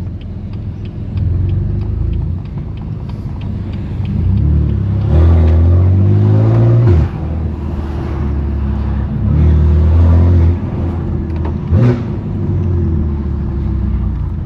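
Straight-piped twin-turbo S55 inline-six of a 2018 BMW M3 Competition (F80) driving: a low steady drone that swells and climbs in pitch under throttle about five seconds in, drops off sharply around seven seconds, then pulls louder again for about a second near the ten-second mark. A light regular ticking sounds during the first three seconds.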